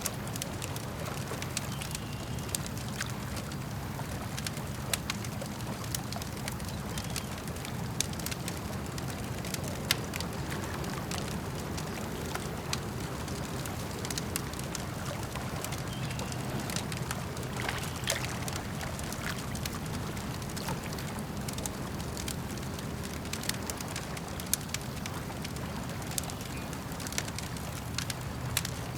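Wood campfire crackling, with irregular sharp pops and snaps scattered throughout, over a steady low wash of lake water.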